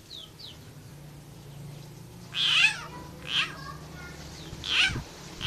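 Frog giving distress screams as a snake seizes it: three loud, cat-like wailing calls about a second apart.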